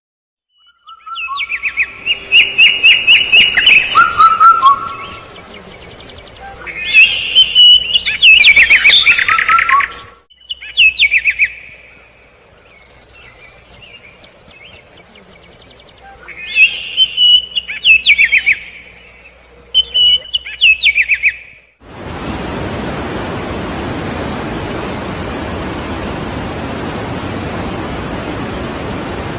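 A songbird singing loud, rapid trilled and whistled phrases, with short pauses between them. About three-quarters of the way through the song cuts off, and a steady, even hiss takes over.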